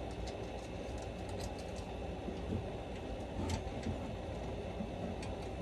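Faint, scattered light clicks of a chainsaw chain and bar being handled as the chain is tensioned, over a steady low background rumble.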